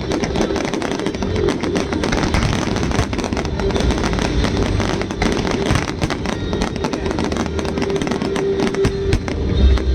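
Fireworks display: shells bursting and crackling in a dense, continuous run of sharp pops.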